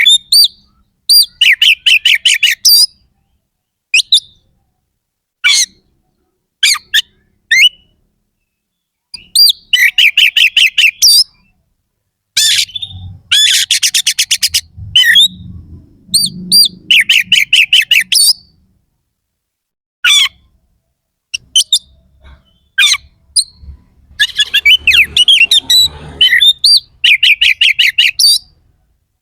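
Oriental magpie-robin (kacer) singing in loud, harsh phrases: runs of quick repeated notes and sharp rising-and-falling whistles, broken by short pauses of a second or so.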